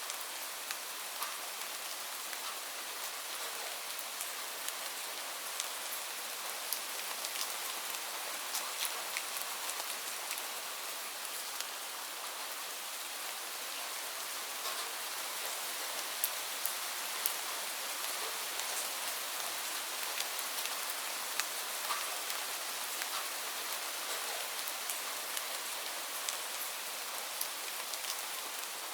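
Steady rainfall: an even hiss of rain with scattered sharp ticks of single drops striking a surface.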